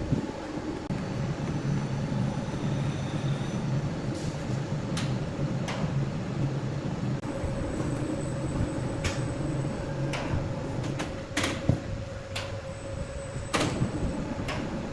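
Large sawmill saw machinery running steadily, with scattered knocks and clatters of timber and metal. A low hum drops away about two-thirds of the way through.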